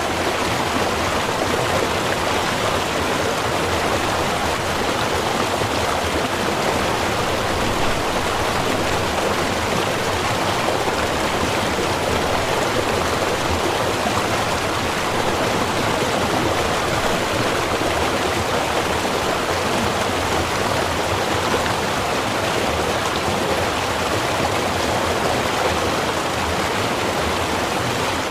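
Small river running steadily, a constant rushing of water without breaks or distinct splashes.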